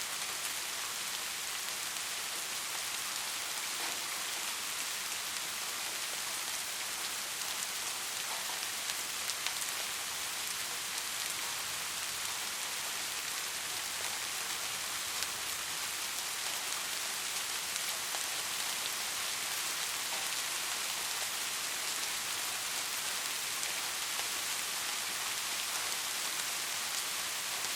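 Steady rain falling, an even hiss with scattered sharper drop patters.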